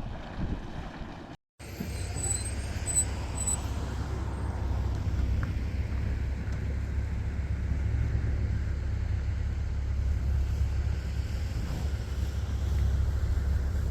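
Wind buffeting the microphone for about the first second and a half. Then, after a sudden cut, the steady low rumble of a car driving on the road.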